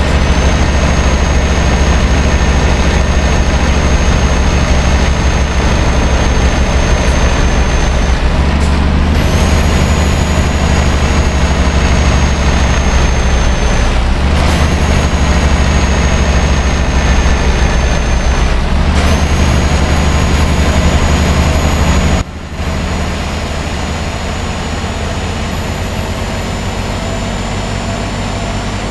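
Scania R560's V8 diesel engine running under load as the truck hauls about 80 tonnes: a steady, deep drone with a high whine above it. The whine and drone break off briefly three times, resuming at a slightly different pitch. About three quarters of the way through, the overall sound drops and stays quieter.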